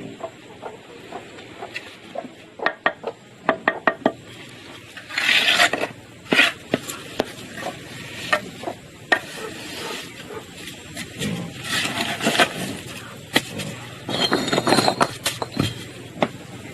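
Irregular taps, clicks and knocks of hand work with tools, with several stretches of scraping.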